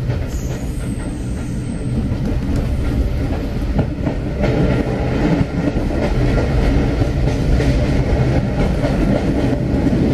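Train running along the line, heard from inside the carriage: a steady rumble of wheels on the track with scattered knocks, a little louder from about two seconds in.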